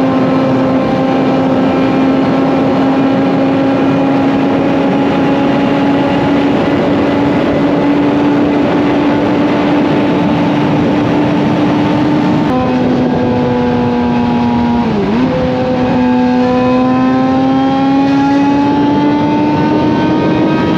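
Suzuki GSX-R750 inline-four with a slip-on exhaust running hard at highway speed, its note slowly climbing. About twelve seconds in the pitch drops suddenly as it shifts up a gear, dips briefly a few seconds later, then rises steadily as it pulls again, all over a steady rush of wind.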